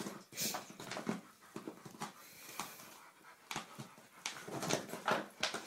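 Border collie panting and whimpering in excited play, with irregular short scuffling noises.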